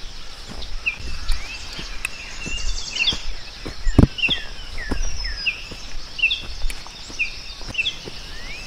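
Small birds chirping repeatedly in a forest, with short high calls at about two a second, over a steady high hiss. A sharp thump comes about four seconds in.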